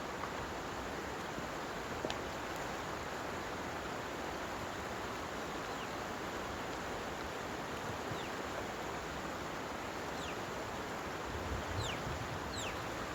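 Steady rushing outdoor noise with a few short, falling bird chirps, most of them in the second half. A low rumble rises near the end.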